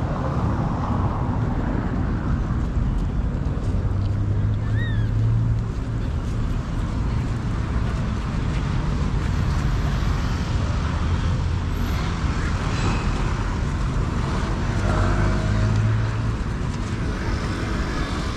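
Steady low engine hum of motor traffic, swelling twice as vehicles pass.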